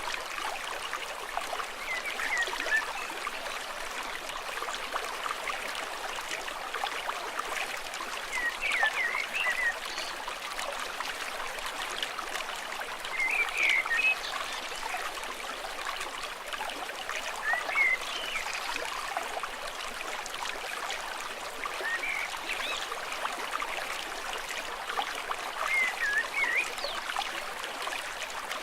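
A stream flowing and trickling steadily, with short chirping animal calls every four to five seconds.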